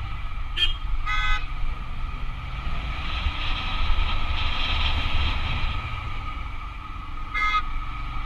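Vehicle horn tooting briefly three times, about half a second in, about a second in, and near the end, over the steady low running of a motorbike engine climbing a mountain road.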